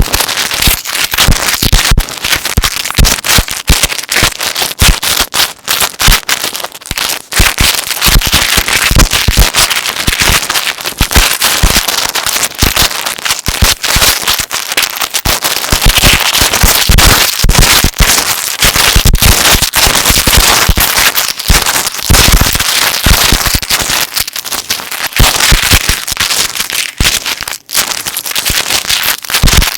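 Metal necklace chains handled and shifted close to the microphone: a loud, dense, unbroken clinking and jingling of many small links.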